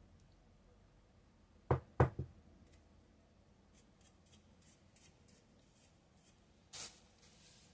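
Small parts of a disassembled nail-drill handpiece being handled on a workbench: three sharp knocks in quick succession about two seconds in, a few light ticks, then a short scraping rustle near the end.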